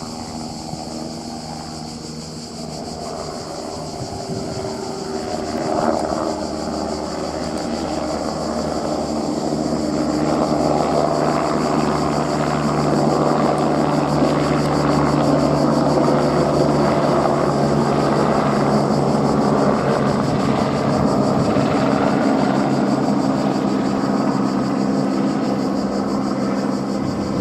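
Airbus AS350 helicopter in flight, a steady rotor and turbine drone that grows louder over the first ten seconds or so and then holds steady.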